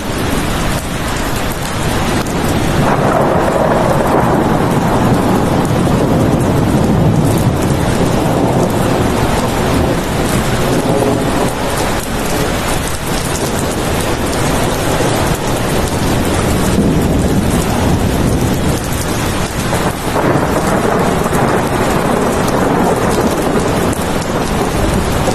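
Steady heavy rain with thunder rolling low underneath, swelling and fading slowly a couple of times.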